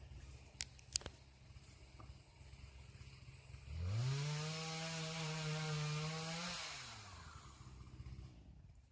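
A small engine idling, then revved up sharply a little under four seconds in, held at high revs for nearly three seconds, and let fall back to idle. Two sharp clicks sound about a second in.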